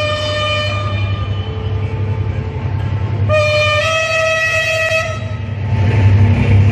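Henschel diesel locomotive sounding its horn twice as the train pulls in: a long blast, then a second, longer one that steps up in pitch partway, over a steady low engine drone. Near the end the rumble of the arriving train swells louder.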